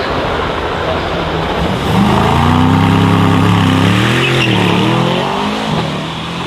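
Aston Martin DBX 707's twin-turbo V8 accelerating past under hard throttle. The engine note comes in loud about two seconds in, rises, dips in pitch around the middle, then fades away.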